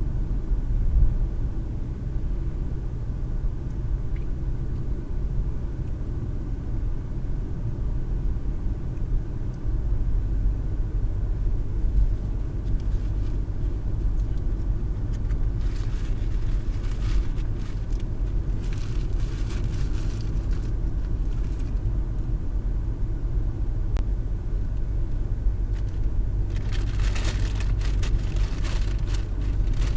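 Car driving, heard from inside the cabin through a windshield dash cam: a steady low engine and tyre rumble. Higher hiss swells up twice, once in the middle and again near the end.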